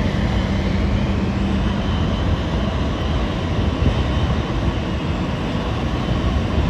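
Jet aircraft engines running: a steady, loud rumble and rush, with a low hum that fades out about two seconds in.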